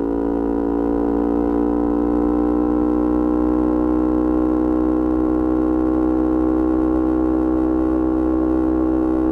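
Yamaha R25's parallel-twin engine, breathing through a Kea Speed aftermarket exhaust, held at steady revs. Its pitch creeps up slightly in the first second, then stays constant.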